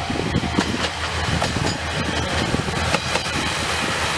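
Diesel railcar passing close by: the steady drone of its engine under a quick, uneven series of clicks from the wheels over the rail joints.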